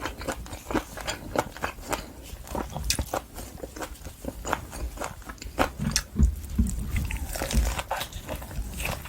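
A person chewing wagyu top blade steak close to the microphone, with many irregular wet mouth clicks and smacks. A few dull low thumps come between about six and eight seconds in.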